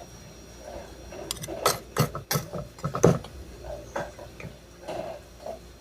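Kitchen utensils and containers being handled while the ganache ingredients are put together: a run of sharp clicks and knocks, busiest about two to three seconds in.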